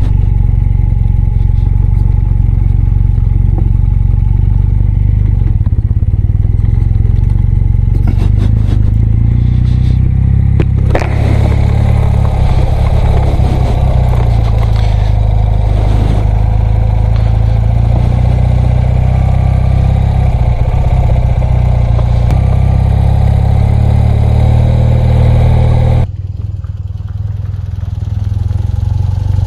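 BMW R100RS air-cooled flat-twin boxer engine running steadily under way. From about eleven seconds in, clattering and scraping from the rough dirt track joins the engine. Near the end the engine note drops as the throttle eases off, then picks up again.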